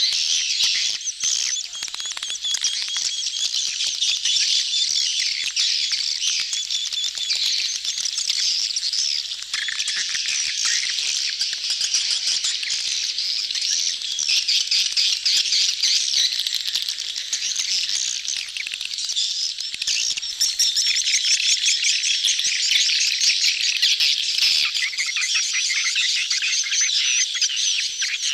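A dense crowd of swiftlets twittering without a break, a high, shrill chatter laced with rapid clicks. It is the massed courtship and mating chatter of a swiftlet colony, used as a lure call to draw swiftlets into a nesting house.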